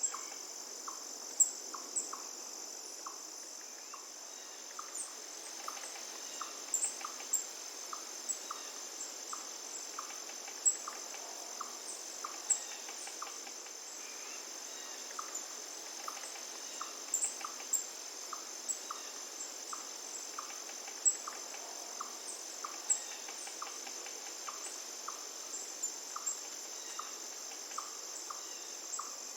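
Insects trilling steadily in a high continuous chorus, with short sharp bird chirps scattered through and a soft call ticking regularly, a bit faster than once a second. A faint even rush of river water lies beneath.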